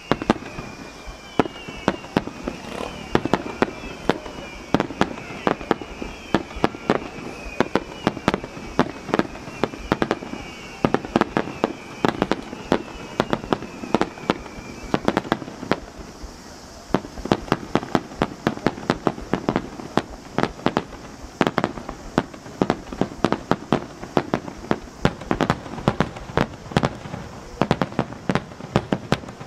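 Starmine fireworks barrage, a rapid-fire display of aerial shells bursting in quick succession, with many sharp reports every second and crackle between them. Through the first half, a high whistle slides downward again and again over the bangs.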